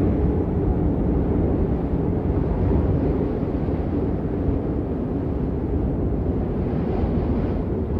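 Steady rain noise, weighted to the low end: a deep, even rumble with little high hiss.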